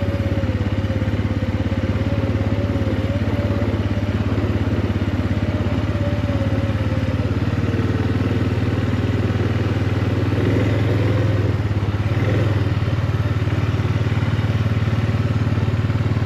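Off-road vehicle's engine running steadily while driving, a constant low drone heard from on board.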